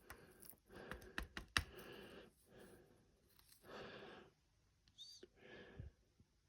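Faint light clicks and scratchy scraping, from lumps of clinker being handled, with a brief high squeak about five seconds in.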